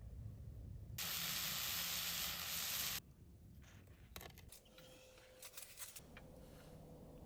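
Food sizzling in a hot pan: a steady hiss that cuts in about a second in and cuts off two seconds later. Scattered crackles and clicks follow.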